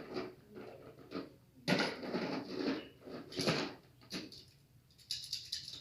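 Objects being handled and rummaged through: irregular clatters and rustles, the loudest about two seconds in, with a quick run of small clicks near the end.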